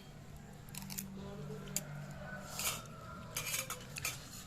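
Metal spoon clinking and scraping against a cooking pan, several separate strokes, over a steady low hum.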